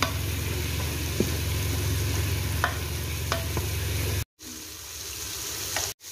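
Prawns and masala sizzling in the pot of an electric pressure cooker on its stir-fry setting, stirred with a spatula that scrapes against the pot a few times. A steady low hum runs under it until the sound cuts out briefly about four seconds in, and again near the end.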